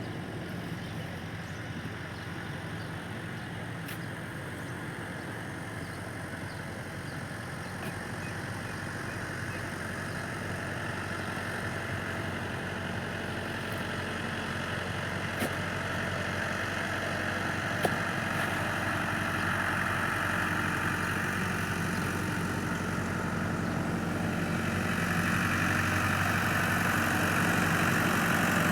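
Tractor engine running steadily and getting gradually louder, with two sharp clicks a little past the middle.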